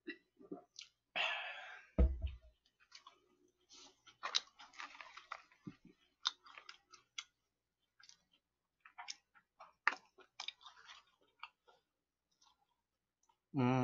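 Close-miked chewing and crunching of fried chicken, a run of short crackly crunches. A thump about two seconds in.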